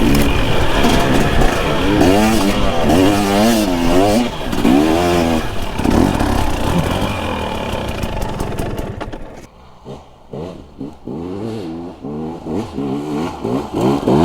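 Dirt bike engine running on the trail, its pitch rising and falling quickly as the throttle is worked on and off. About nine and a half seconds in it drops to a quieter, lower running, then picks back up with short revs near the end.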